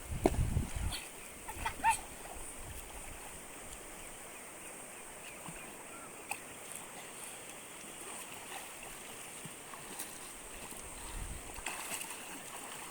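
Steady rush of flowing water, with a few splashes and thuds near the start and again near the end, and a short high-pitched call about two seconds in.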